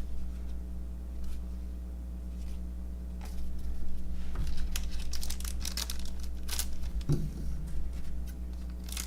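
Cardboard baseball cards being handled and flipped through, a quick run of papery clicks and rustles starting a few seconds in, over a steady low electrical hum.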